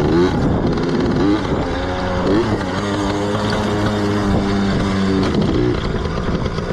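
Yamaha PW80's small two-stroke single-cylinder engine running while being ridden. It revs up a few times, holds a steady pitch for about three seconds, then eases off.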